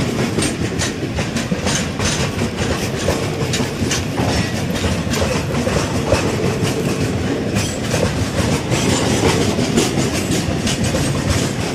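Loaded freight wagons of a heavy chrome ore train rolling past close by, their wheels clattering over the rail joints in a steady run of clicks and clunks.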